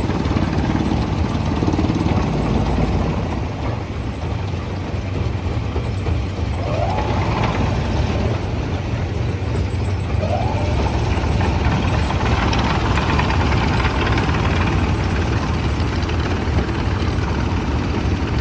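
Heavy diesel machinery running steadily with a deep rumble, with two short rising whines, one about seven seconds in and one about ten seconds in.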